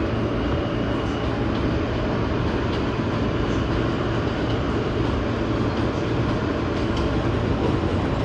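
New York City subway train running between stations, heard from inside the car: a steady rumble of wheels on rails with a low motor hum and light scattered clicks.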